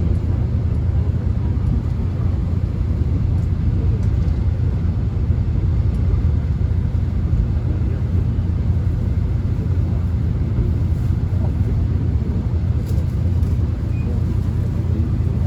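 Korean subway train running, heard from inside the carriage as a steady low rumble with a few faint clicks and rattles.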